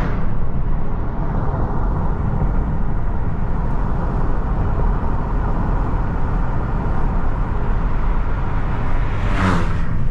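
Car road noise heard from inside the moving car: a steady low engine and tyre rumble, with a brief rush of noise near the end.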